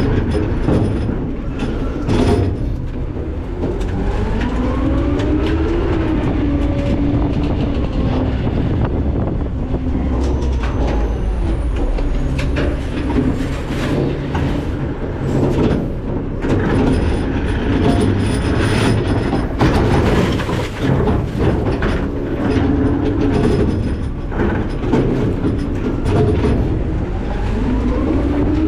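McNeilus ZR garbage truck at work: engine rumble with hydraulic whine rising and falling twice, and many metallic clanks and bangs of trash and the cart hitting the hopper.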